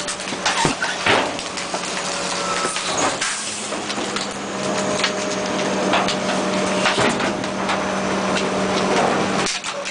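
2003 International refuse truck with a Labrie sideloader body running, with a steady low hum under a loud clattering noise and several sharp knocks and clanks.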